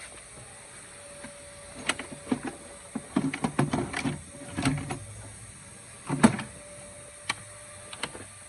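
A run of irregular clicks, taps and knocks from hand tools and parts being handled during work on a car engine, with the loudest knock about six seconds in.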